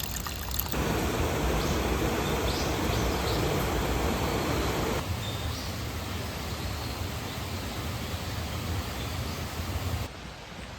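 Steady rush of flowing water from a mountain stream and waterfall. The noise changes level abruptly about a second in, about halfway through, and again near the end.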